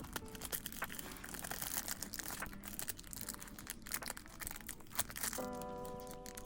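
Crinkly material being handled, rustling with many small irregular crackles. Lofi hip-hop background music comes back in about five seconds in.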